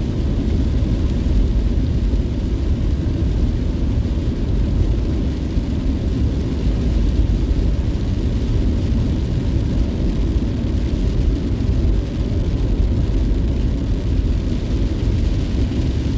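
Steady low rumble of a car's engine and tyres heard from inside the cabin while driving along at an even speed.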